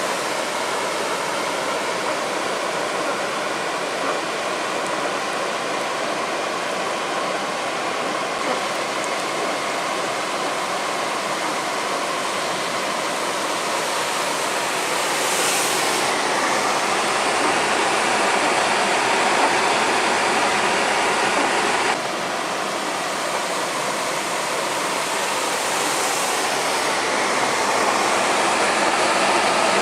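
Heavy rain pouring down, a dense steady hiss of water. It grows louder for a stretch past the middle, then drops suddenly about three-quarters of the way through.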